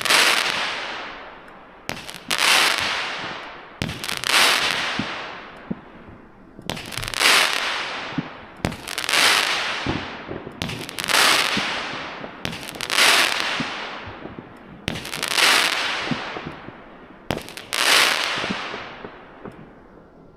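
Hammer and Anvil Silver Crackle Ultra Mine cake firing its nine mine shots one after another, about one every two seconds: each a sharp lift bang followed by a dense crackle of crackling stars that dies away over a second or two.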